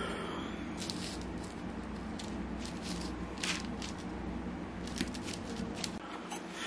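A rolling pin rolling dough out thin under parchment paper: faint rubbing with scattered light crinkles of the paper, over a steady low hum.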